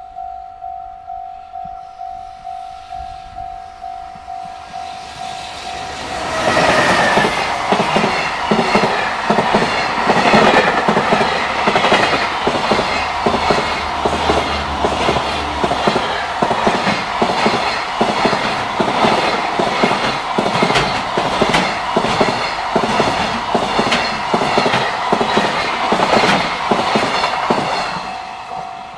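Japanese level-crossing warning bell ringing its steady repeating ding, then about six seconds in a JR Freight container train hauled by an EF210 electric locomotive passes close by, its wagons' wheels clattering rhythmically over the rail joints. The passing train drowns the bell until its last wagon clears near the end, when the bell is heard again.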